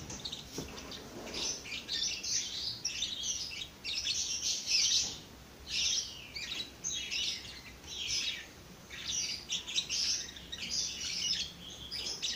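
Many birds chirping: a busy, unbroken run of quick, high chirps with short pauses between clusters.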